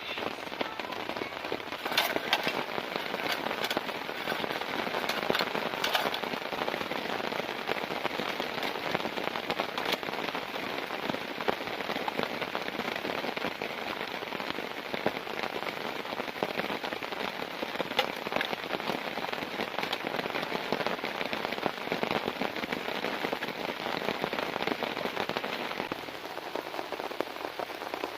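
Heavy rain falling steadily, with a dense patter of sharp individual drop hits over the continuous wash of rain.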